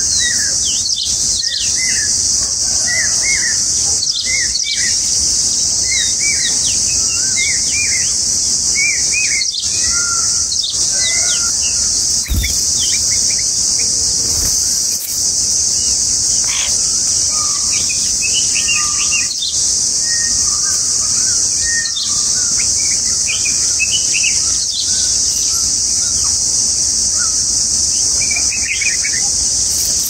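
Short bulbul chirps in quick runs over a loud, steady, high-pitched insect drone that is the loudest sound throughout.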